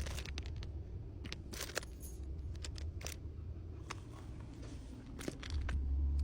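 Small items and packaging being handled: a scatter of light clicks and taps over a low rumble, which grows louder near the end.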